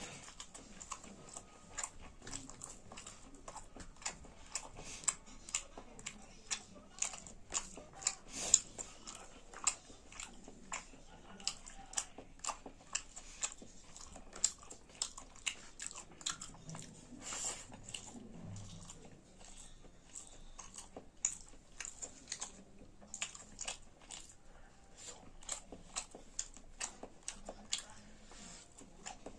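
A person chewing and biting food close to the microphone, mukbang style: a long run of sharp, wet mouth clicks and crunches, several a second, with one louder crunch about eight seconds in.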